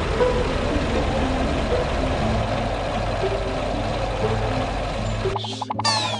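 A loud steady rushing noise of a cartoon sound effect with background music notes under it. The noise cuts off suddenly about five seconds in, leaving the music with quick falling synth sweeps.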